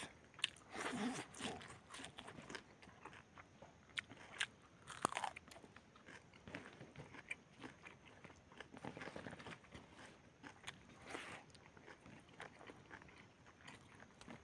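Faint, irregular chewing and biting of roasted chicken and rice eaten by hand, with small crunches and mouth noises.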